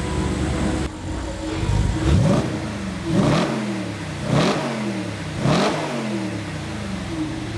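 Audi RS5's naturally aspirated 4.2-litre V8 idling, then blipped four times in a row, each rev rising sharply and falling back, about a second apart.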